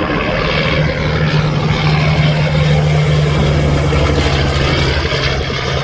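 Semi truck passing on a highway: a steady diesel engine drone over tyre and road noise. The engine note drops a little past the middle.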